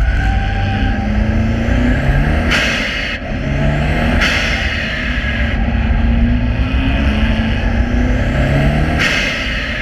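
Subaru Impreza's flat-four engine driven hard around a circuit, its pitch repeatedly climbing under acceleration and dropping back at each gear change or lift, over steady road and wind noise. Two short bursts of hiss come about two and a half seconds in and again near the end.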